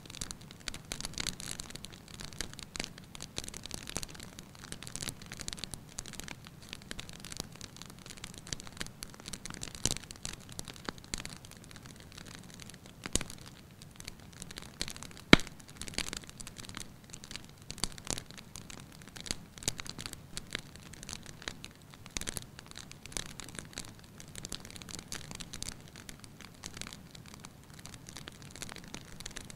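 Fireplace wood fire crackling steadily with many small irregular pops, and one sharp louder pop about halfway through.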